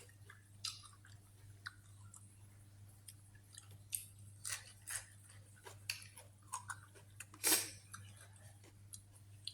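A person chewing and smacking close to the microphone while eating tam sua (spicy pounded salad with rice noodles, shrimp and squid). It is a run of irregular wet mouth clicks and smacks, with one louder smack about three-quarters of the way through.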